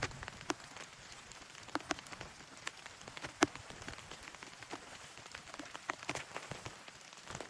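Rain falling, with a steady hiss and scattered single drops striking close by; the sharpest drop hit comes about three and a half seconds in.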